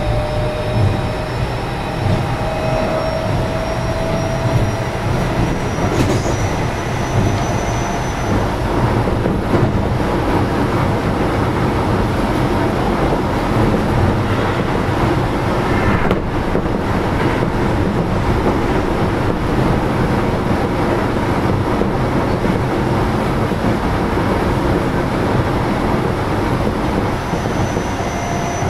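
Keio 7000-series commuter train running, heard inside the passenger car: a steady rumble of wheels on rail with faint high-pitched whines from the wheels and running gear.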